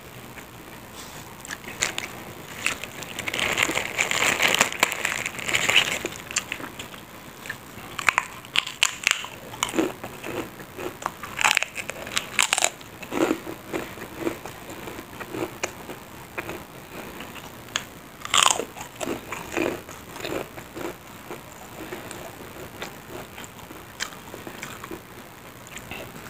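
A person chewing and crunching mouthfuls of food, with irregular sharp crunches. The crunching is densest a few seconds in, with single loud crunches later on.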